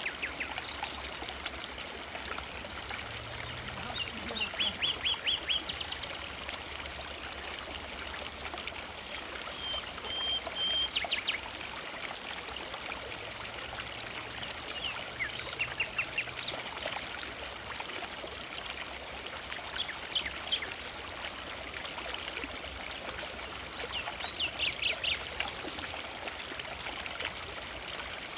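Forest river flowing steadily over stones, a continuous rushing of water. A bird calls over it about five times, each time a quick series of short high notes.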